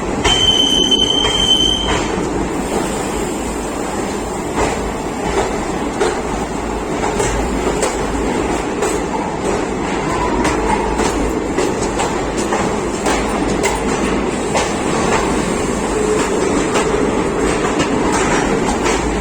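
Train running along the track: a steady rumble of wheels on rails with scattered clicks, and a high steady squeal lasting about a second and a half near the start.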